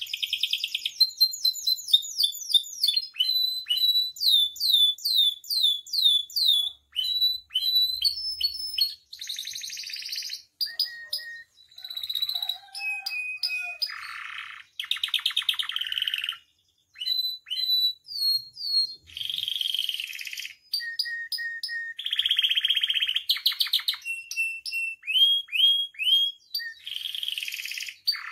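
Domestic canary singing a long, varied song of rapid repeated trills, rolls and high chirps, broken by a few brief pauses.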